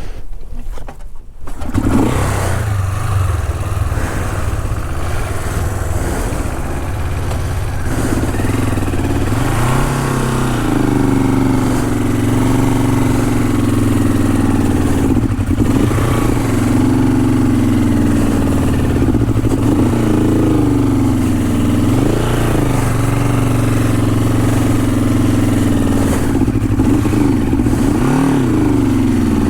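Honda CL450 parallel-twin motorcycle engine coming in about two seconds in, then running under load with its engine speed rising and falling repeatedly as the throttle is worked.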